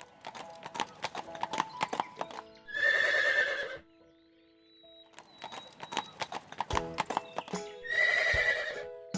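Horse hooves clip-clopping, then a horse neighing, heard twice over light background music: a run of hoofbeats followed by a whinny of about a second, then more hoofbeats and a second whinny near the end.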